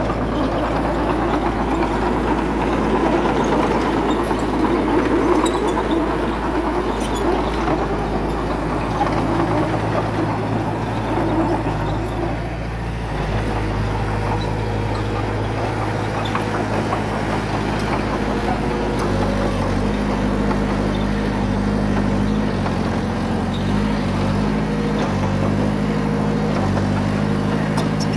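Diesel engine of a bulldozer working sand, running steadily, with a rougher, noisier stretch through the first half; in the second half the engine note shifts up and down in pitch several times.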